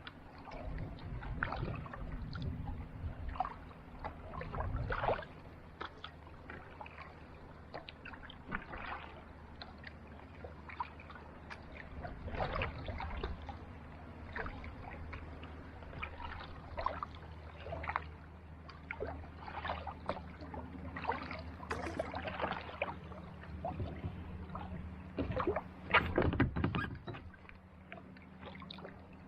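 Kayak paddle strokes on a calm sea: irregular dips and splashes of water every second or two, the loudest near the end, over a steady low hum.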